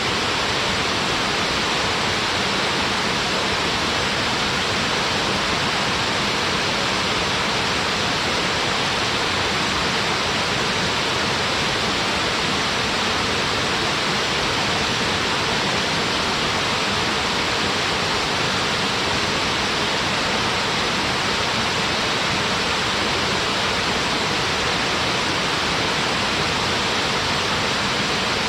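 Small waterfall splashing and pouring: a steady, even rush of falling water with no breaks.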